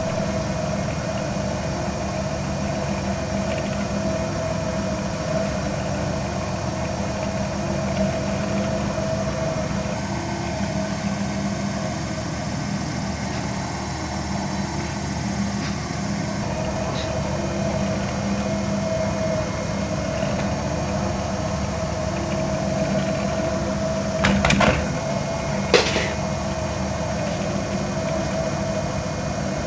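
Steady mechanical hum, like a small motor or fan, with two short clatters near the end.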